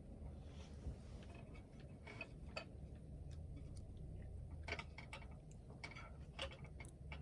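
Wood fire crackling: irregular pops and snaps, a few a second, over a low steady rumble.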